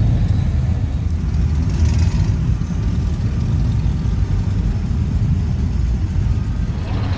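A car engine running steadily and low-pitched, with most of its sound deep in the bass.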